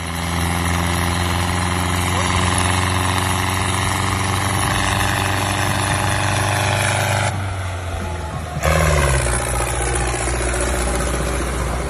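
Diesel tractor engine running steadily. About seven seconds in the sound thins out for a second or so, then comes back with a short rise in pitch.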